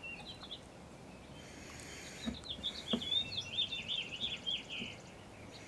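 A songbird singing a rapid twittering phrase of short chirps, starting about two seconds in and lasting about three seconds. Two soft knocks sound during the song.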